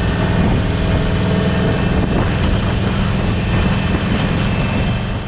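Harley-Davidson Sportster Forty-Eight's air-cooled 1200 cc V-twin running steadily through a Jekill & Hyde flap exhaust, a low, even engine note with no revving.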